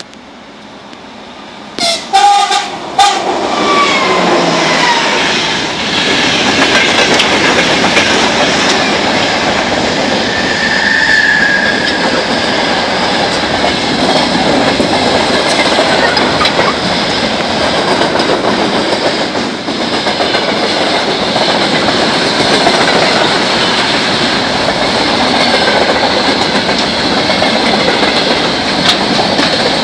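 2TE116U twin-section diesel locomotive approaching and passing at speed with a freight train. It gives short horn blasts about two seconds in, and its sound drops in pitch as it goes by. The loaded freight wagons then roll steadily past with a clickety-clack of wheels on rail joints.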